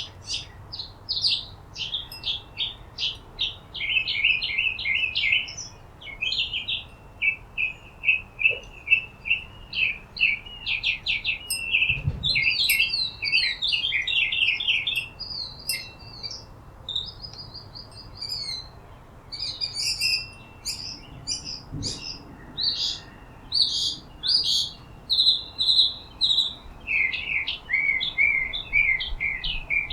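Birds chirping and twittering, a near-continuous stream of rapid short high notes with overlapping calls.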